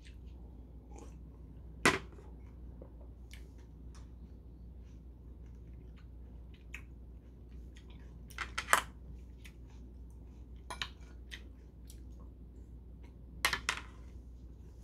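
A person chewing fruit, with a few sharp clicks and knocks: the loudest about two seconds in, just past the middle, and near the end. A low steady hum runs underneath.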